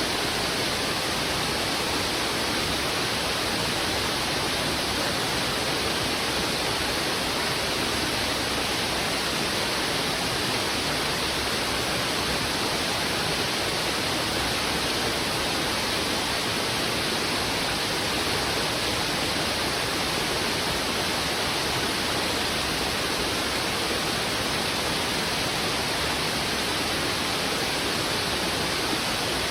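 Fast-flowing river rushing over rocks: a steady, even rush of water that does not change.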